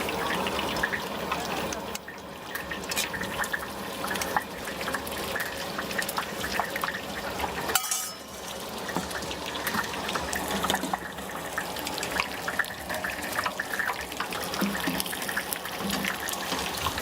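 Tofu deep-frying in hot oil, with a steady sizzle and crackle full of small pops. A single sharp knock sounds about eight seconds in.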